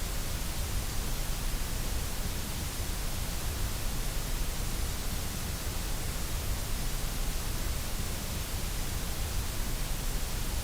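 Steady white noise: an even, unchanging hiss spread across all pitches, with no rhythm or change.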